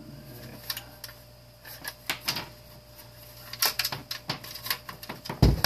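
Irregular clicks and knocks of plastic and metal parts being handled while a space heater is taken apart, with one louder thump near the end.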